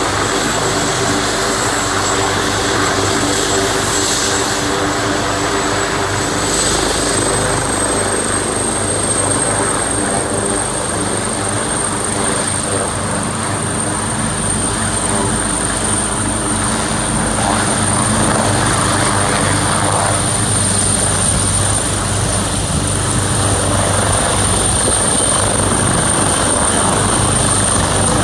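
Helicopter running steadily, the rotor and engine giving a continuous loud noise with a thin high turbine whine that rises slightly in pitch several seconds in and then holds.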